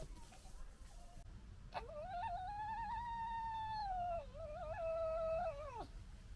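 Red fox giving one long whine of about four seconds: it rises, wavers, dips briefly, then falls away at the end.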